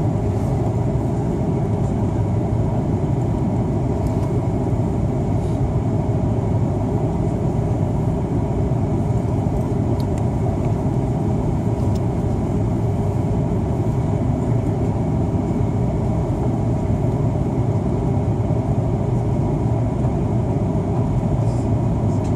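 Steady cabin noise of an Airbus A330-300 in flight: a constant rush of air and engine hum, with faint steady tones above it.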